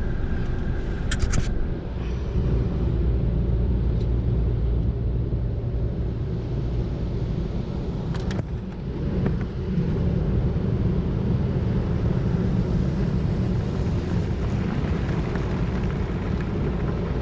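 Steady low rumble of a car moving through a drive-through car wash, with a couple of brief sharp clicks, one about a second in and one about eight seconds in.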